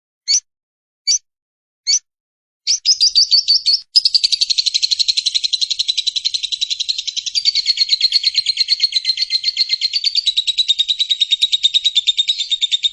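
Lovebird's long 'ngekek' chatter: a few short separate calls, then from about three seconds in a fast, unbroken run of rapid chattering notes that goes on for about nine seconds and stops abruptly at the end.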